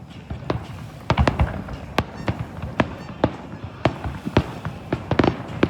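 Fireworks display going off: an irregular run of sharp bangs and pops, coming thick about a second in and again near the end.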